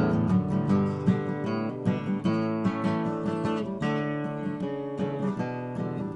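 Acoustic guitar strummed and picked in a folk song's instrumental break between sung lines.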